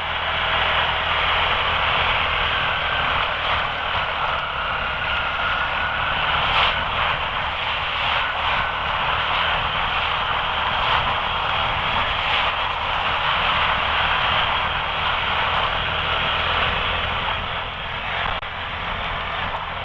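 Quad (ATV) engine running under throttle while it is ridden and spun in mud. A steady, dense rushing noise of wind and pouring rain lies over it, with a brief rise in engine pitch a few seconds in.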